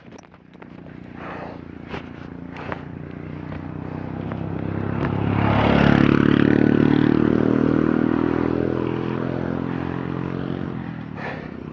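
A motor vehicle passes by, its engine growing louder, at its loudest about six seconds in, then fading away.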